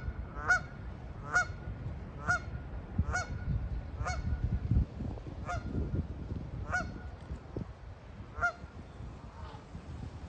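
A large bird, goose or gull, gives about ten short honking calls at uneven intervals, a little under a second apart at first, then more spread out and fainter toward the end, over a low rumble.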